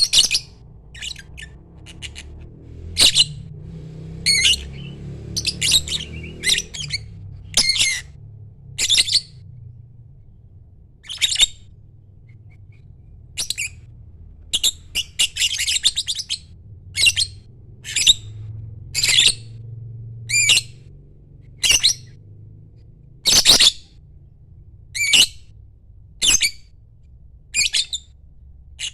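Lovebird giving short, shrill squawking chirps, about one every second or two at uneven intervals, some in quick pairs. A low steady hum runs underneath.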